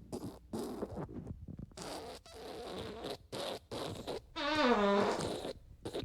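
A string of fart sounds: short sputtering bursts one after another, then a longer, louder one about four seconds in whose pitch drops and then holds.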